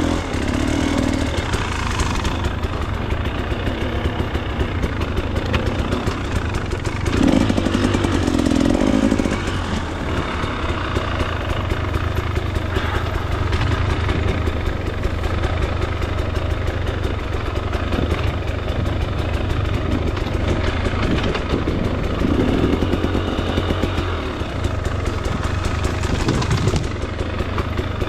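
2024 KTM 300 XC-W two-stroke dirt bike engine running at low to moderate throttle, the revs rising briefly about seven seconds in and again a little past twenty seconds.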